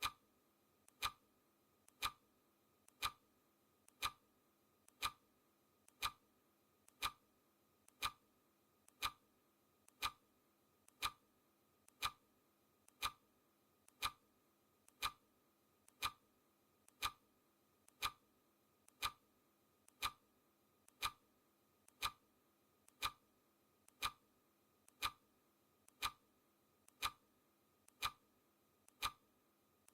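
Clock ticking sound effect: a steady tick-tock, with one loud tick each second and a much softer tick between.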